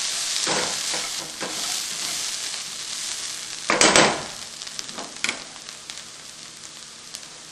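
Chopped bitter gourd with crushed peanuts sizzling in oil in a frying pan as a spatula stirs and scrapes through it. The loudest scrape comes about four seconds in, and after it the sizzle is quieter.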